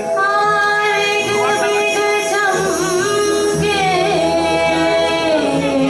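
A woman singing a held, wavering melody over steady instrumental accompaniment.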